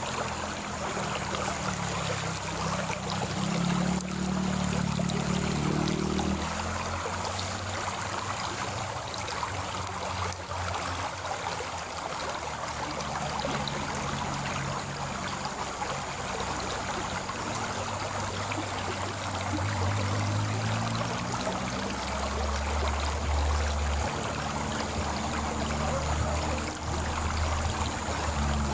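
Water flowing steadily in a stream, an even rushing trickle. A low droning hum rises and fades underneath a few seconds in, and again in the second half.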